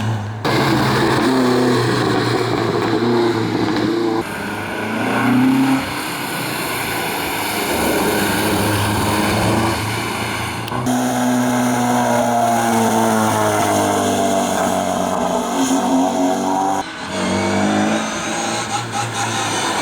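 Rally car engines revving hard and accelerating, the pitch climbing and dropping through gear changes and lifts. The sound changes abruptly about 4, 11 and 17 seconds in, a run of different cars passing.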